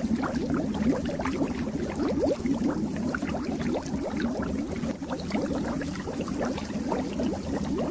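Fish-tank water bubbling and gurgling: a steady, dense stream of small bubbles with many quick rising blips.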